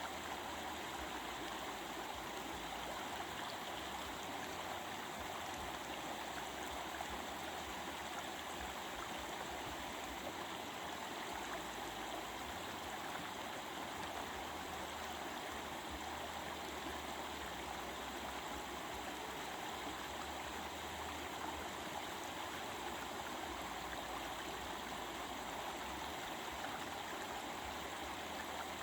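Stream water flowing and babbling, a steady, unbroken wash of sound with no pauses.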